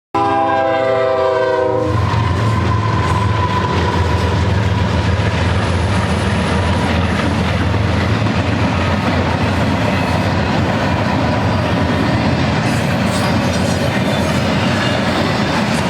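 A freight train's diesel locomotive air horn sounds a chord of several notes for about the first two seconds, then the steady rumble and wheel-on-rail clatter of the train rolling past continue.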